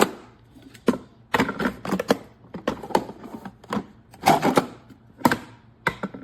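A coffee carafe knocking and clicking against a Keurig K-Duo Essentials coffee maker as it is pushed in and pulled back several times, catching instead of sliding into place. The carafe is a poor fit. There are a dozen or so irregular hard knocks, some in quick clusters.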